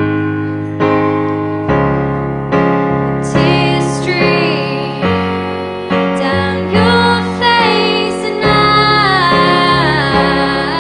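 Piano playing repeated chords, about one struck every second, with a voice singing a flowing melody over them in the middle of the stretch and again near the end.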